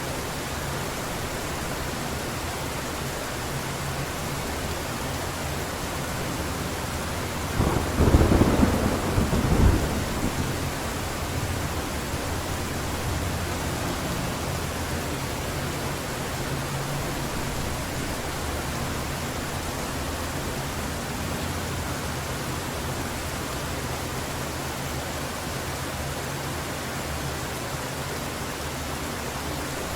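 Heavy rain falling steadily, with a clap of thunder about eight seconds in that rumbles for around two seconds, with a second crack near its end, before dying away under the rain.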